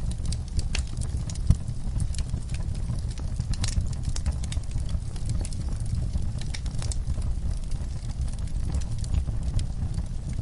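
Wood fire in a fireplace crackling, with irregular sharp pops and snaps over a low steady rumble of the burning.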